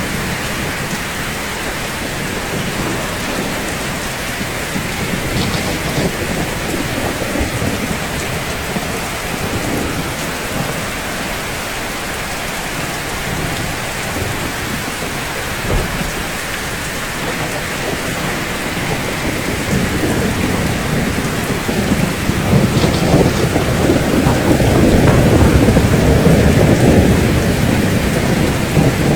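Steady, dense rainfall. A low rumble of thunder swells in the last several seconds, and there is a single brief low thump about halfway through.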